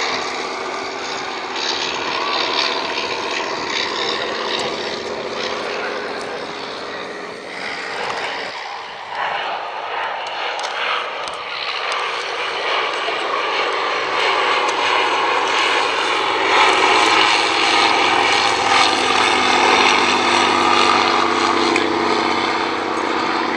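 Propeller aircraft engine running steadily at a steady pitch, growing louder over the second half.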